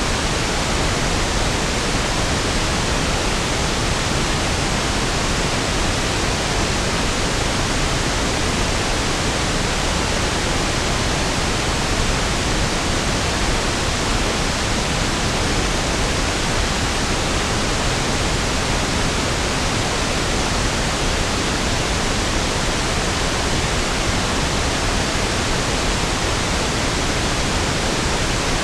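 Pink noise: a steady, even hiss with equal energy per octave, smoother and deeper than white noise, unchanging throughout.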